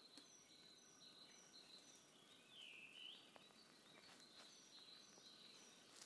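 Faint birdsong: a series of short high notes, a few per second, repeated twice, with a lower swooping call in between.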